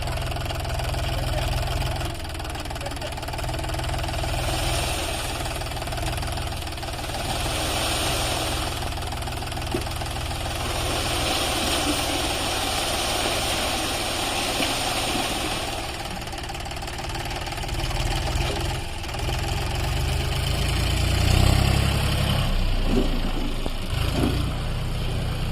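John Deere 5204 tractor's three-cylinder diesel engine running steadily, getting louder for a few seconds near the end. A higher rushing noise swells and fades several times over it.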